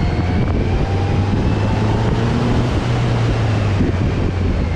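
Kawasaki Z900's inline-four engine running steadily while the motorcycle is ridden, with wind rushing over the microphone; the engine pitch rises slightly partway through.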